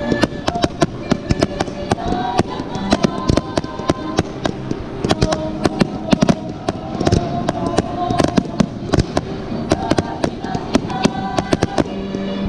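Fireworks bursting rapidly, several sharp bangs and crackles a second, in a music-synchronised finale, with music playing under the bursts.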